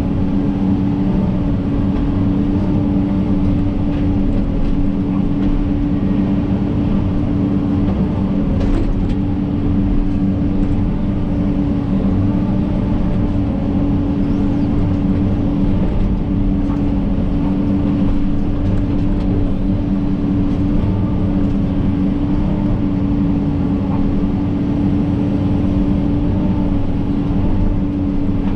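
John Deere 130G excavator's diesel engine running steadily at a constant speed, with a strong steady hum.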